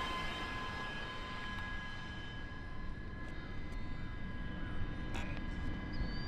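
Engines of a large radio-controlled Boeing 777X model jet in flight: a steady high whine over a low rumble as the plane flies at a distance.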